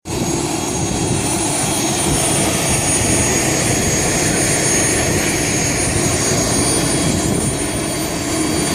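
Radio-controlled model jet flying, a steady jet rush with a thin high whine over it.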